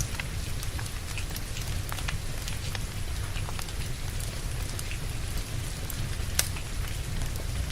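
Wood fire crackling with scattered sharp pops, the loudest a little past six seconds in, over the steady hiss of rain and a low rumble.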